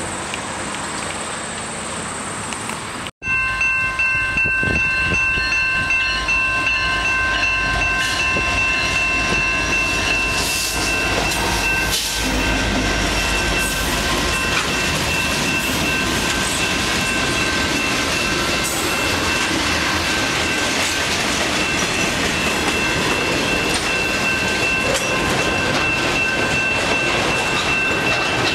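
A train passing close by, its wheels clattering over the rails, with several steady high-pitched ringing tones held over it. The sound starts abruptly about three seconds in.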